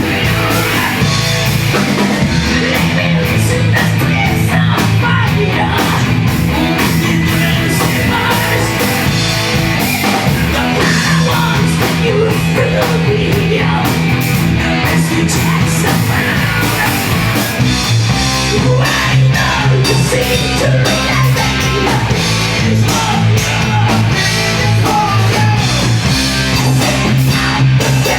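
A live post-hardcore band playing loud, heavy music: distorted guitars, bass and drums.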